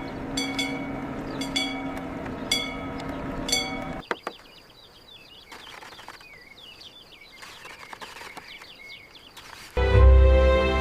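A steady hum with short, high, repeated chirps about once a second, then, after it stops, quieter chirping birdsong over a thin steady high whine. Loud music comes in near the end.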